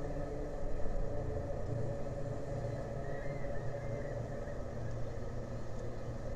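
Engines idling with a steady low rumble and hum. A faint brief chirp about three seconds in.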